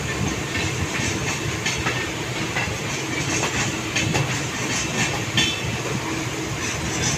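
Train running on the track: a steady rumble with wheels clattering irregularly over rail joints.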